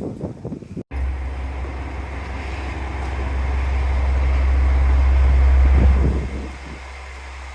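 Rumble of a diesel train running by, with wind buffeting the microphone; it starts abruptly about a second in, builds to its loudest around six seconds in, then drops away.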